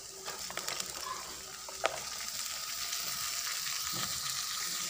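Diced carrots and potatoes going into a hot wok of sautéed spring onions, shallots and garlic, sizzling steadily in the oil, with a few light clicks in the first two seconds, the sharpest just before two seconds in.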